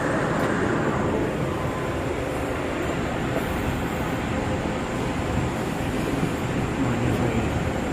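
Bombardier R179 subway car running between stations, heard from on board: a steady rumble of wheels on rail and car noise, with the higher hiss easing off about a second in.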